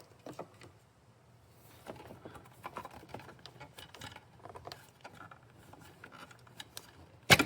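Jeep Wrangler ignition coil pack being worked out of its spark plug well by hand: faint scattered clicks and rustling of plastic and rubber, with one sharp loud click near the end.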